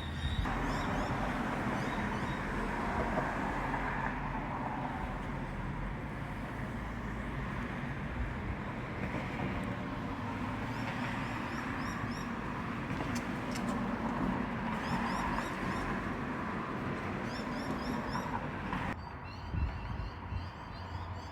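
Outdoor evening ambience: a steady rushing background noise, with short bursts of rapid high chirping, like insects, coming and going several times.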